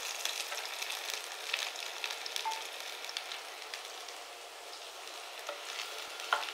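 Chopped button mushrooms sizzling as they sauté in hot oil in a nonstick pan, with small clicks as pieces drop in and a wooden spatula pushes and stirs them near the end.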